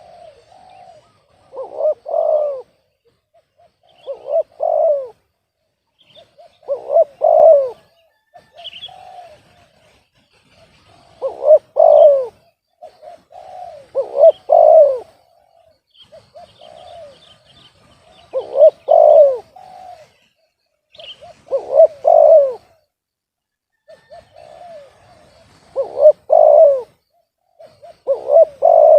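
Spotted dove (tekukur) cooing over and over, a loud phrase about every two and a half seconds with softer lead-in notes between, and faint high chirps of small birds behind it.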